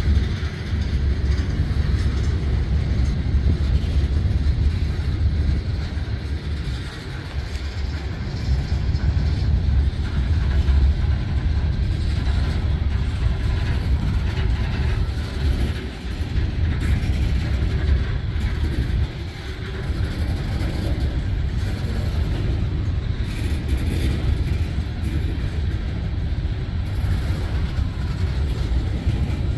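Covered hopper cars of a Norfolk Southern freight train rolling past: a steady low rumble of steel wheels on the rails.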